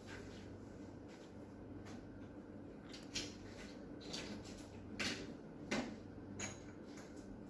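Scattered light clicks and taps from small tools and watch parts being handled, about half a dozen, over a steady low hum.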